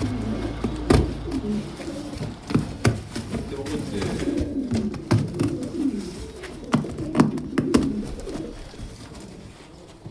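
Domestic pigeons cooing, many overlapping low coos, with scattered sharp knocks among them; the cooing fades out near the end.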